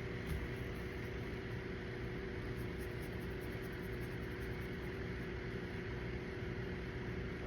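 Steady mechanical background hum with faint steady tones, and a single soft knock about a third of a second in.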